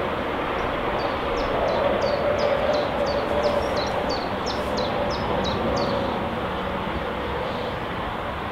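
A small songbird calling with a quick run of short, high, falling chirps, about two or three a second, over a steady rushing outdoor background noise.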